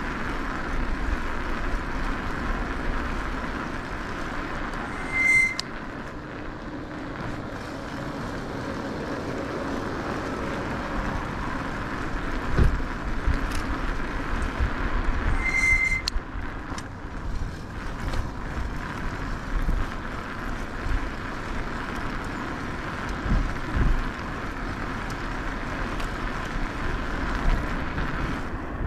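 Steady riding noise from an e-bike on the move, with wind rumbling in gusts on the action camera's microphone. Two short high tones sound about ten seconds apart.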